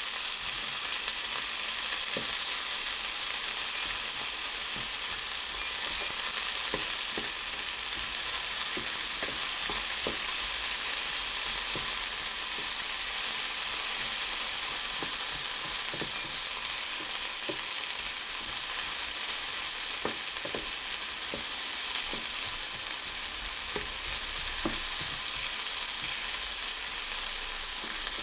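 Fajita filling sizzling steadily in a hot frying pan, with scattered light taps and scrapes of a utensil stirring it.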